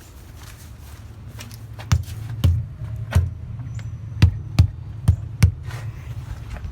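Semi-trailer tires being struck to check their air pressure: a run of about seven dull thumps from about two seconds in, some in quick pairs, over a steady low hum.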